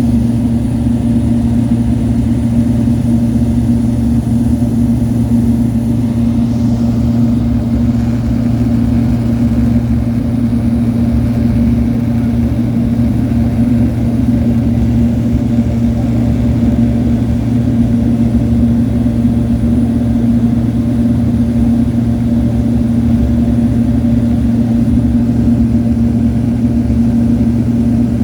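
Cabin noise inside a Cessna 208 Grand Caravan in flight: the single PT6A turboprop engine and propeller make a loud, steady drone with one strong humming tone over a low rumble.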